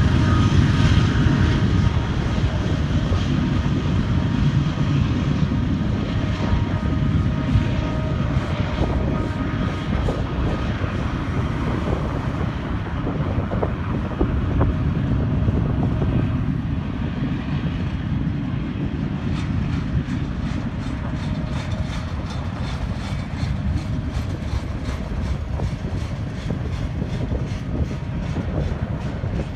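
Double-stack container train's loaded well cars rolling past: a steady rumble of steel wheels on rail, with a faint high ringing in the first several seconds and regular clicking of wheels over rail joints in the second half.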